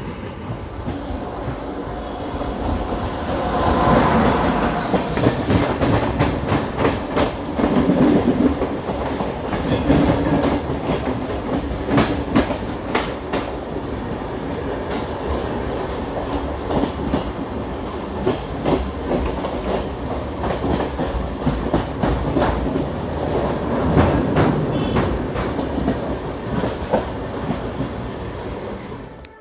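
Passenger train hauled by a WAP7 electric locomotive passing, with a continuous rush of wheels on rail and many sharp clicks as the wheels cross rail joints. The sound swells louder several times and cuts off at the end.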